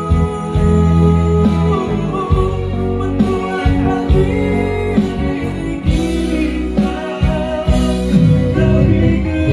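Live band music: a voice singing a melody over guitar, with a strong bass line underneath.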